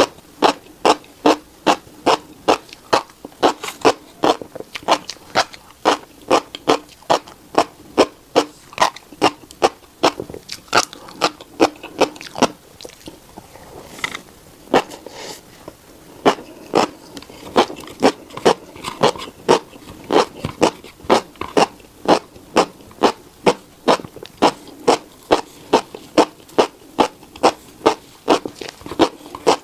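Close-miked chewing of tiny black seeds: a crisp crunch about three times a second, with a pause of a few seconds around the middle.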